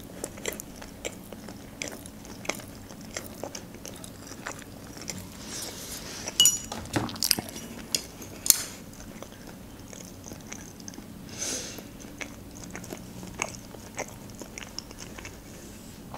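Close-miked chewing of a mouthful of sushi roll with the lips closed: a steady run of soft, wet mouth clicks and smacks, with a few louder sharp clicks around the middle.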